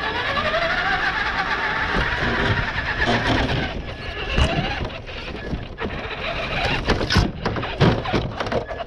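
RC car motor whining and rising in pitch as the car speeds up, twice, with frequent knocks and rattles of the car bouncing over the ground.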